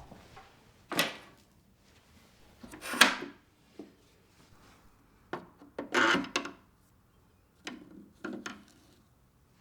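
Objects being handled and set down: a few separate knocks and scrapes, the loudest about three seconds in, and a longer scraping rustle about six seconds in.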